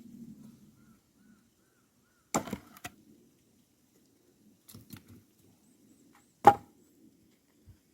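Axe splitting firewood logs: two sharp chops, the second, about six and a half seconds in, the louder, with a brief clatter of wood after the first and a few lighter knocks in between.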